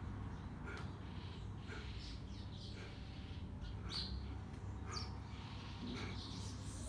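Birds chirping intermittently, short calls at varying pitches a second or so apart, over a low steady background rumble.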